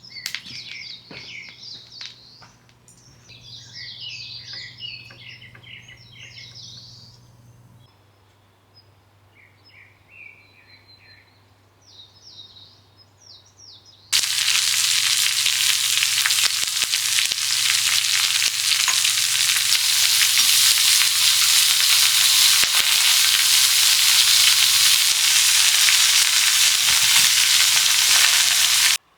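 Small birds chirping and singing for about the first half. Then a sudden cut to loud, steady sizzling of food frying, which stops abruptly near the end.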